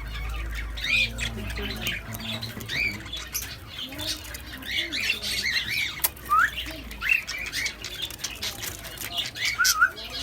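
White doves calling: many short, squeaky arched chirps over low coo-like notes, with frequent scratchy clicks of feet and wings.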